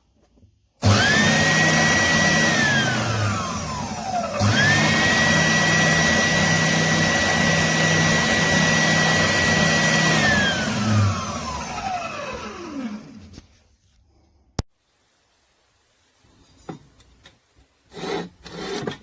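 Scheppach OSM100 oscillating spindle sander switched on. Its motor whine rises quickly to a steady high pitch, then falls as it spins down after it is switched off. It is switched on again, runs steadily for about six seconds, and slowly winds down. A sharp click and a few faint knocks follow near the end.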